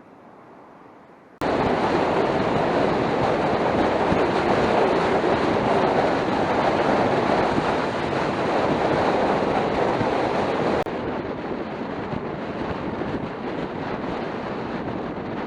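Wind noise on the camera microphone while riding the Suzuki Skywave 250 scooter, a loud steady rush mixed with riding noise. It cuts in suddenly about a second and a half in and steps down to a lower level near eleven seconds.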